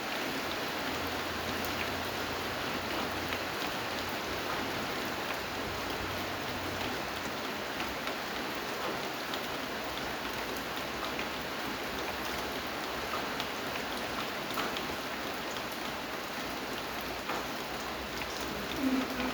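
Steady rain falling on a surface, with scattered individual drop ticks. There is a brief low thud near the end.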